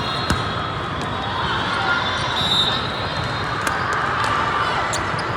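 Volleyball hall ambience: steady crowd chatter with several sharp smacks of volleyballs being struck and bouncing on the court floor. The loudest smack comes about a third of a second in. There is a brief high squeak in the middle.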